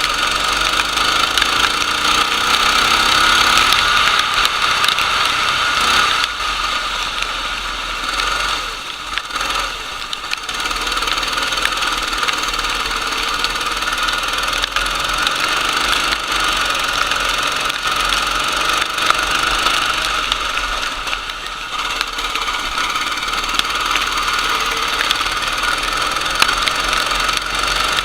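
Racing kart engine running hard, its pitch rising and falling, with a steady hiss over it. The sound drops briefly twice, about a third of the way in and again later.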